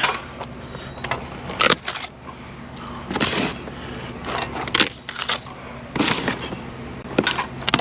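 Discarded fans being handled for scrap: a string of irregular knocks, clatters and cracks, about ten at uneven spacing.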